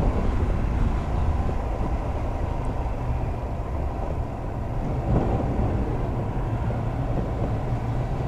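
Steady low engine rumble with a noisy rush over it, and a brief louder surge about five seconds in.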